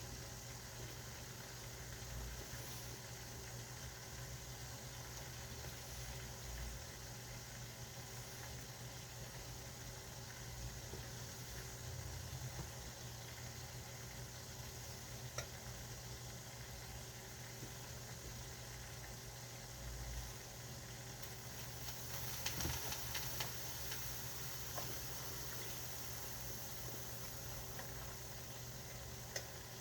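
Food cooking on the stove: a steady sizzling, bubbling hiss over a constant low hum, with a few light clinks and clatters of utensils about two-thirds of the way through.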